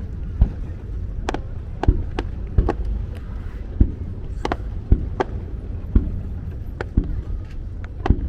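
Aerial fireworks shells bursting in quick, irregular succession, about one or two sharp bangs a second with short echoes, over a steady low rumble.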